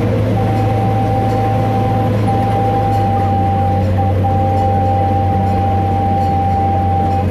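Miniature train running with a steady low rumble. A thin, steady whine sounds through most of it and breaks off briefly twice.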